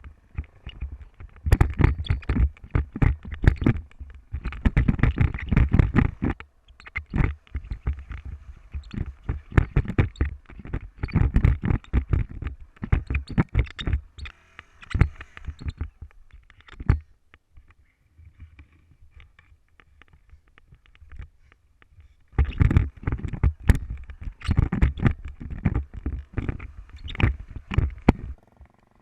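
Wind buffeting and knocking on a camera microphone on a moving motorcycle: gusty rumbling bursts with many sharp knocks, easing off for a few seconds about two-thirds of the way through before picking up again.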